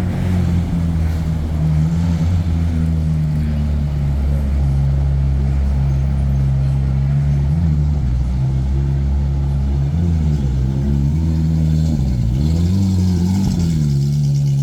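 A car engine runs steadily at a low, even pitch. In the second half its pitch dips and comes back up a few times.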